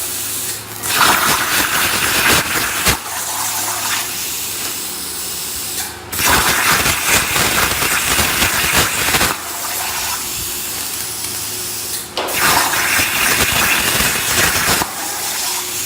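CNC plasma cutter torch hissing steadily as it cuts sheet metal, growing louder and harsher in three stretches of two to three seconds each.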